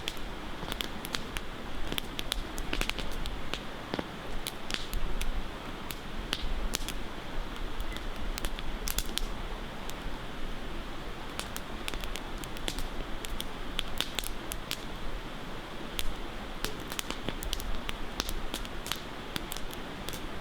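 Wood campfire crackling, with irregular sharp pops and snaps over a steady rush of flowing river water.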